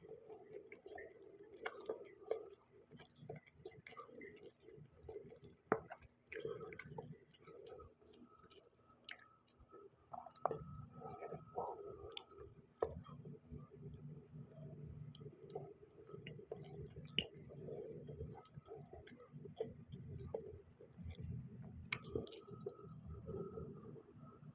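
A person eating spicy noodles: close chewing with wet mouth sounds, broken by scattered sharp clicks.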